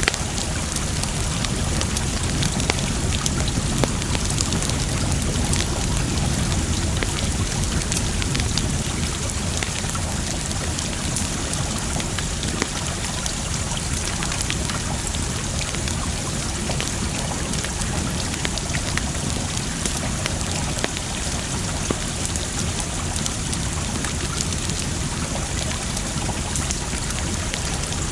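Campfire crackling, with many small sharp pops scattered through it, over a steady wash of water.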